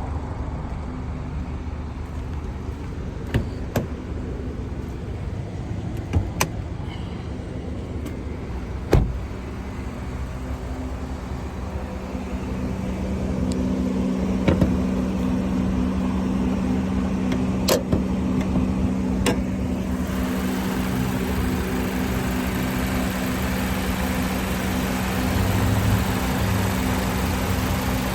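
A 2018 Mazda CX-5 running, with a steady low hum that strengthens partway through and several sharp clicks like switches or latches. A steady hiss comes in suddenly about twenty seconds in.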